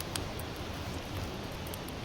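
Campfire of sawtooth oak (kunugi) logs burning, a steady hiss with scattered small crackles and pops, several a second.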